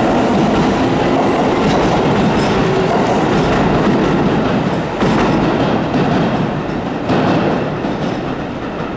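Keio 7000 series electric train running out past the platform and away, with a steady rumble and wheels clicking over rail joints and points. The sound eases slightly as it moves off.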